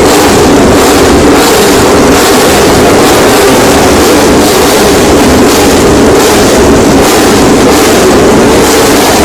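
Loud, steady engine noise of MotoGP racing motorcycles.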